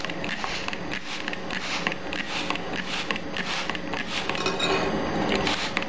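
A spoon scraping and stirring a stiff rice flour mixture in a bowl, in a run of short, repeated strokes against the bowl.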